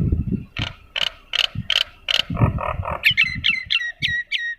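Pet bird calling: a run of harsh repeated notes about three a second, then near the end a quick series of short chirps that each drop in pitch.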